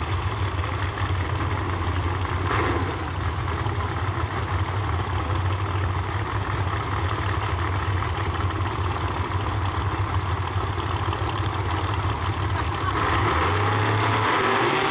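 Drag race cars' engines idling in the lanes before a launch: a loud, deep, steady rumble that grows louder about thirteen seconds in, with the engine note starting to rise right at the end.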